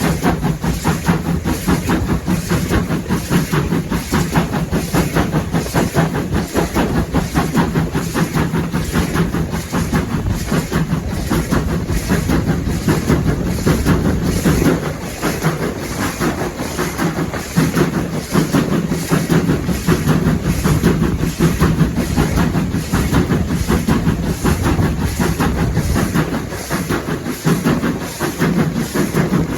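Train running along the line: a steady loud rumble with a regular clickety-clack of wheels over the rail joints.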